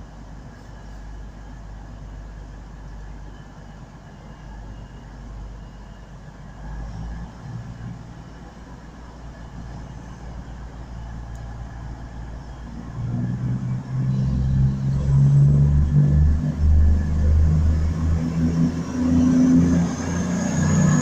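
CrossCountry Class 220 Voyager diesel multiple unit, its underfloor diesel engines running up under power. A low engine rumble grows loud about thirteen seconds in, and a high whine rises near the end.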